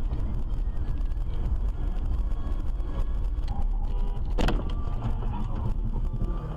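Steady low road and engine rumble of a moving car heard from inside, with one sharp bang about four and a half seconds in.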